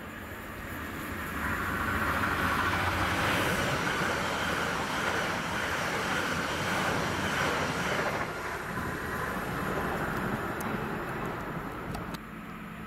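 Passenger train passing close along the platform, its wheels running on the rails: the noise builds over the first couple of seconds, holds for about six seconds, then fades. Near the end it drops suddenly to a quieter, more distant train sound.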